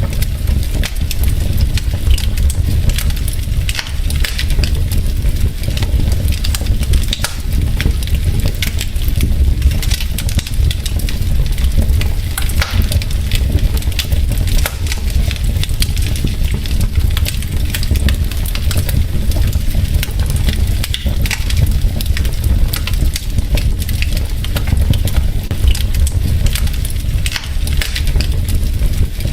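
Wood fire burning in a fireplace: logs crackling with many small irregular pops over a steady low rumble.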